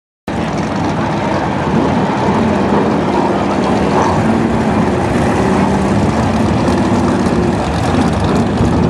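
A pack of BriSCA F1 stock cars' V8 engines running together on track, loud and steady. The sound cuts in abruptly after a moment of silence.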